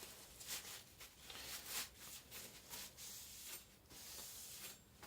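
Steel cleaver blade being stroked back and forth across a whetstone: a faint, rhythmic scraping hiss, about two to three strokes a second.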